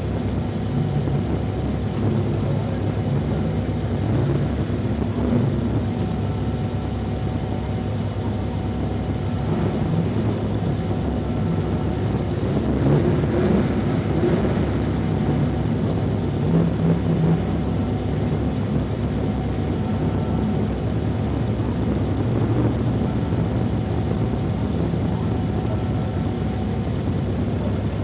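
Honda Civic's engine running steadily at low revs, heard from inside the cabin, with an even low hum and no strong revving.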